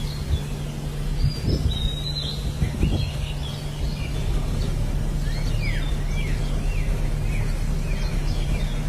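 Small birds chirping: a run of short, arched calls, thickest in the second half, over a steady low hum and background noise.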